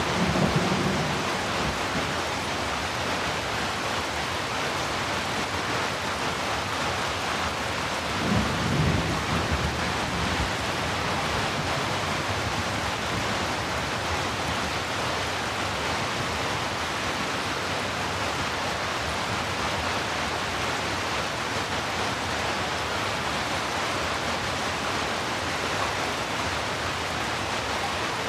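Heavy, steady rain making an even hiss. Low rumbles of thunder fade out in the first second and roll again for a couple of seconds about eight seconds in.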